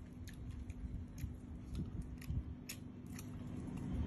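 Chewing a bite of crispy fried chicken drumstick, with irregular crunchy clicks every half second or so. A steady low hum runs underneath.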